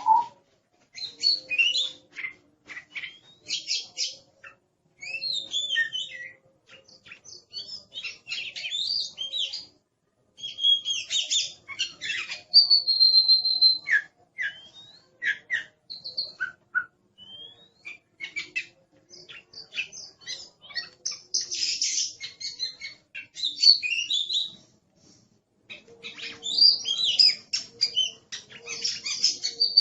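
Oriental magpie-robin (kacer) singing a varied song of quick chirps, clear whistles and harsh notes in bursts, with short pauses between phrases.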